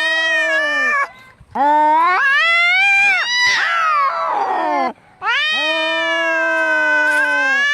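Angry cats caterwauling: three long, drawn-out yowls with wavering pitch, broken by short pauses about a second in and about five seconds in. The middle yowl turns into a harsh, falling screech. These are the threatening wails of a cat fight.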